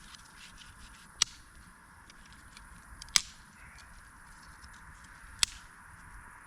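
Campfire crackling with many small ticks and three sharp, loud pops about two seconds apart.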